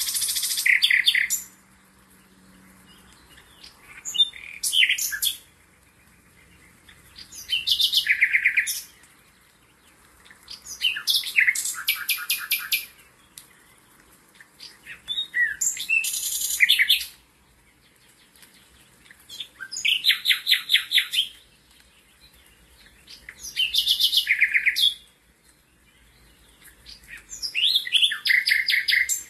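A songbird singing the same song over and over: eight phrases of rapid, high trills, each about a second and a half long, coming about every four seconds.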